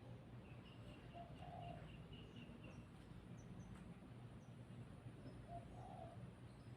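Faint birds calling: a quick run of high chirps over the first three seconds, two short low calls about a second and a half in and again near the end, and scattered thin high chirps.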